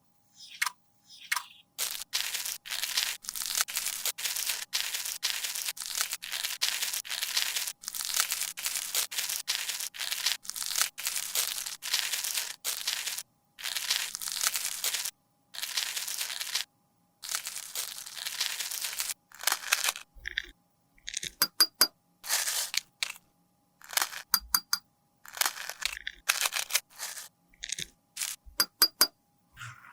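Makeup powder being scraped and crushed with a tool in quick repeated strokes, followed from about twenty seconds in by short sharp clicks and taps, some with a light metallic ring.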